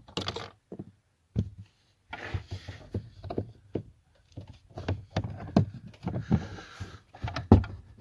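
Plastic under-dash trim cover being unscrewed with a T20 Torx screwdriver and worked loose by hand: a run of irregular clicks and knocks with two stretches of scraping.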